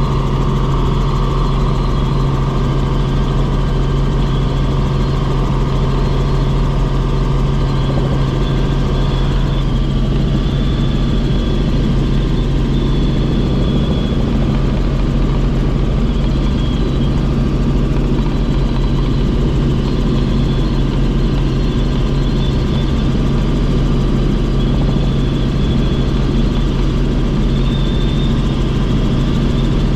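Helicopter in steady flight, heard from inside the cabin: a loud, constant engine and rotor drone with a steady low hum.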